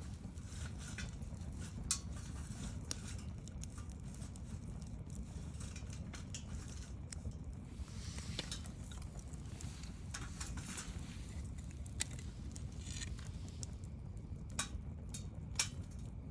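Wood bonfire crackling, with scattered sharp pops over a low steady rumble. The loudest pops come about two seconds in, about twelve seconds in, and twice near the end.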